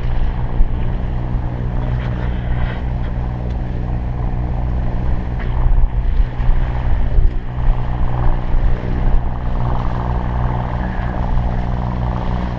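Sailing catamaran's engine running steadily while motor sailing, a constant low hum. A noisy rush of wind and water lies over it, swelling between about six and eight seconds in.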